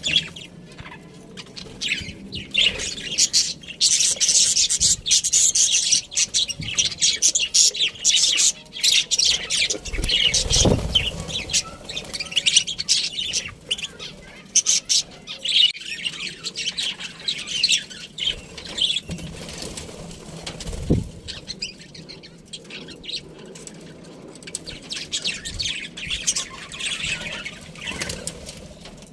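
Pet budgerigars chirping and chattering in a rapid, continuous stream of short high-pitched notes, with a soft low thump twice.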